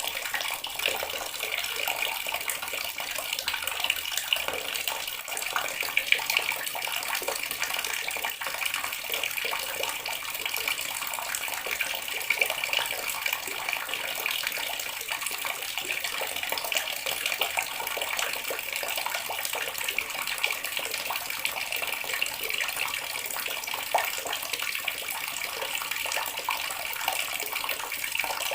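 Water running steadily from a tap, a continuous splashing stream.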